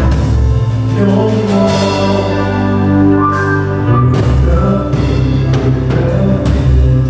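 Gospel worship song played by a live band, with a steady bass line, sustained chords and regular drum hits.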